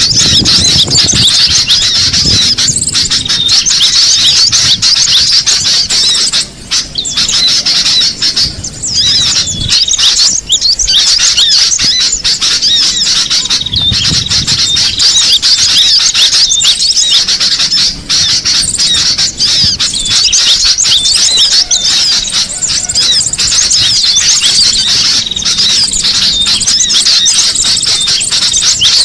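Cinereous tits (gelatik batu) calling in a dense, almost unbroken high-pitched chatter of rapid overlapping notes, with brief lulls about seven and eighteen seconds in.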